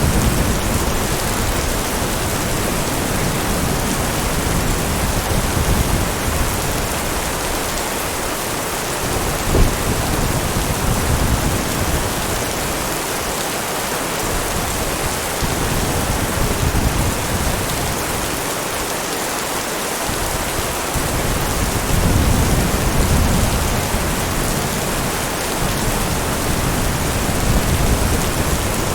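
Heavy, steady rain, with low rolls of thunder that swell and fade several times. A single sharp tap comes about ten seconds in.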